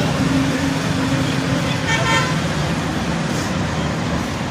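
Road traffic running past with a steady engine hum, and a short vehicle horn toot about two seconds in.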